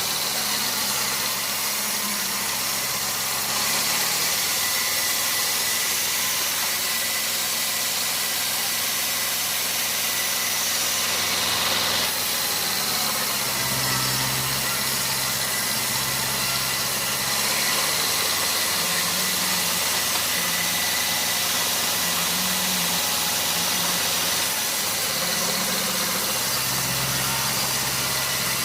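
Sawmill machinery running: an engine runs steadily under a constant high hiss, its low note shifting a couple of times.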